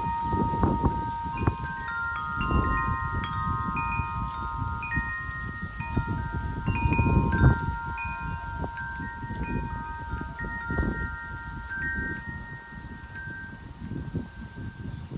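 Wind chimes ringing in the wind, struck irregularly, with several notes sounding and overlapping as they ring on. Gusts of wind rumble on the microphone underneath.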